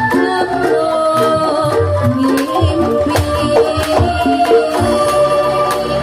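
Javanese traditional song performed live: a sung melody over sustained pitched instruments, with regular drum and percussion strikes.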